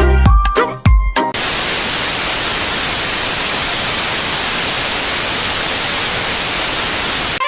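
A song with a heavy bass beat cuts off about a second in and gives way to loud, steady white-noise static, an even hiss that holds at one level.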